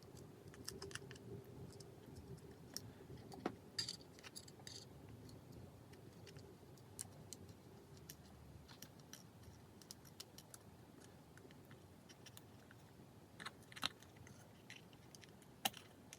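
Faint, scattered clicks and taps of small repair tools against an iPhone 5s's parts during disassembly, a few a little louder about four seconds in and near the end.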